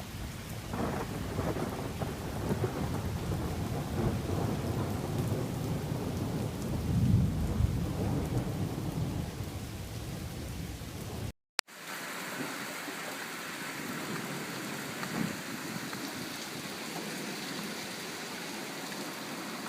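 Heavy rain falling with a low rumble of thunder that swells to its loudest about seven seconds in. After a brief dropout a little past halfway, a steady rain hiss carries on without the rumble.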